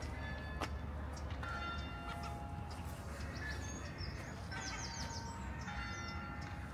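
Birds singing in short, high chirping phrases several times, over a steady low rumble.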